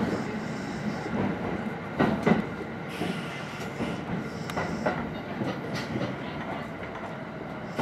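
Kintetsu electric train running slowly into a station platform, heard from inside the front car: steady running noise with scattered wheel clicks and knocks, easing off slightly as it slows.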